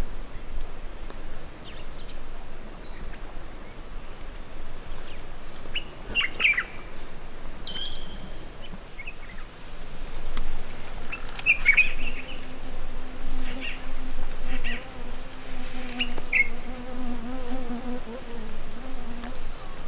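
Scattered short bird chirps, and from a little past halfway a steady, slightly wavering buzz of a flying insect close to the microphone.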